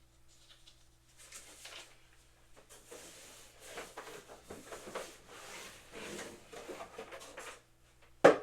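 Faint, irregular rustling and scraping of packaging and equipment being handled, then a sharp, loud knock near the end.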